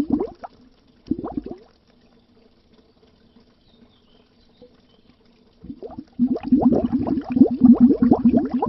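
Underwater bubbles gurgling in rapid, dense pops. The bubbling stops just after the start, returns in a short burst about a second in, falls silent for about four seconds, then picks up again and carries on.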